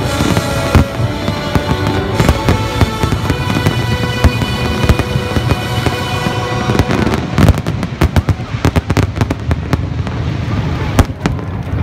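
Aerial fireworks bursting over music. A little past halfway, a rapid run of sharp bangs and crackling takes over for several seconds.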